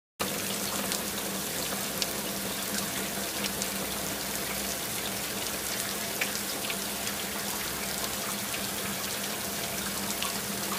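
Rain sound effect: a steady hiss of falling rain with scattered sharp drop ticks, starting suddenly just after the start, over a faint steady low hum.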